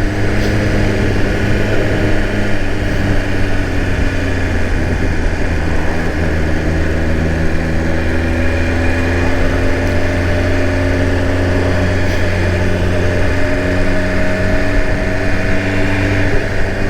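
BMW S1000 RR inline-four engine running at a steady, even speed, its pitch drifting only slightly up and down.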